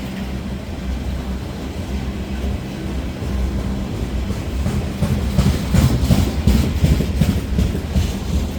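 Loaded grain hopper cars of a slow freight train rolling past, wheels clicking over rail joints over a steady low drone. The clicks grow louder and come in quicker clusters about five seconds in.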